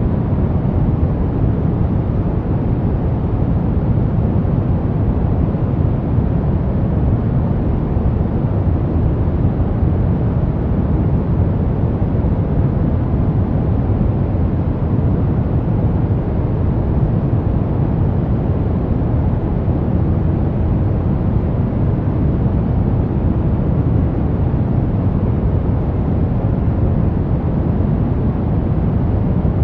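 Brown noise: a steady, unbroken deep rushing hiss, heaviest in the low rumble and rolling off toward the treble, with no changes.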